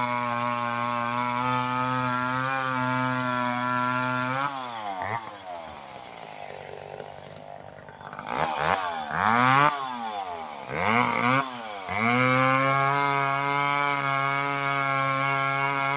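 Two-stroke chainsaw running steadily at high speed, then the throttle is let off about four seconds in and the saw drops to a low idle. It is revved up and down several times, then held at high speed again for the rest.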